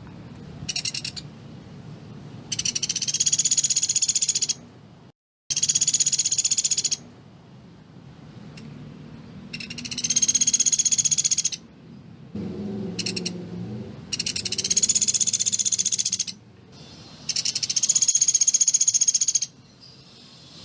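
Pelatuk beras woodpecker giving rapid, dense rattling trills. There are five high-pitched trills of about two seconds each, a few seconds apart, with two very short bursts between them.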